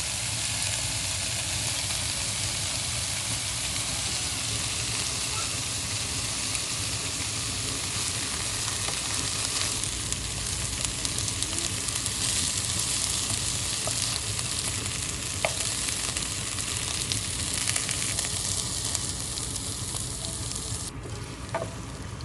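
Food sizzling in hot oil in a pan, with a utensil now and then clicking against the pan as it is stirred. Near the end the sizzle suddenly thins.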